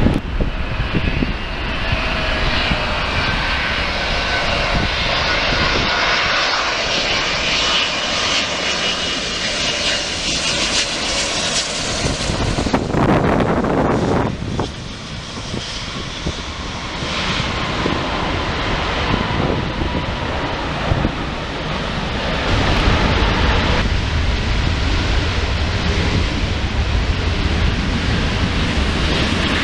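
Wide-body jet airliner passing by, the engine noise steady and loud, with a faint whine that falls slowly in pitch over the first few seconds. About halfway there is a brief rush of wind on the microphone.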